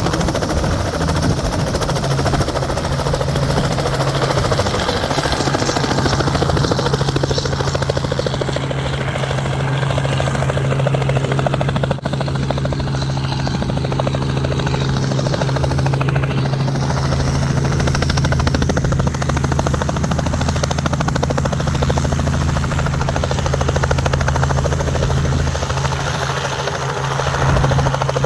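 Helicopter's engine and rotor running steadily on the ground before takeoff, a continuous low hum under whirring noise.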